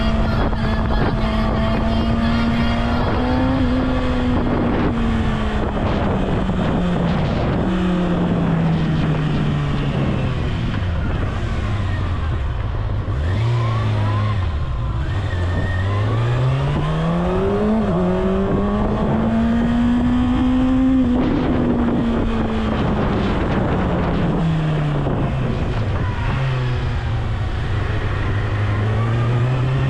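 Kawasaki Ninja ZX-6R's inline-four engine running on the move. Its pitch sinks and climbs again slowly, over several seconds each time, a few times over as the bike slows and speeds up.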